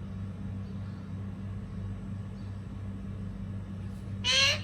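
A pet parrot gives one short, harsh squawk near the end, an angry call from a bird that is agitated and not wanting to be touched, over a steady low hum.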